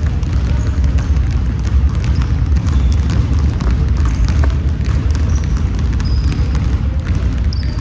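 Indoor basketball game: the ball bouncing on the court and sneakers squeaking on the floor, over a loud steady low rumble.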